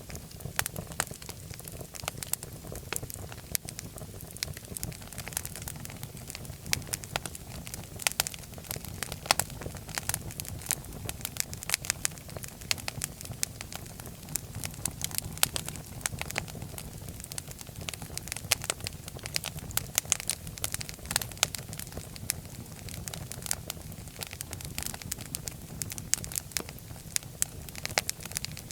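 Fire burning in a fireplace, crackling: many irregular sharp snaps and pops over a steady low rumble.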